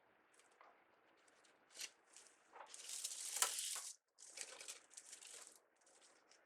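Crinkling and rustling of crafting materials being handled, in several bursts, loudest about three to four seconds in.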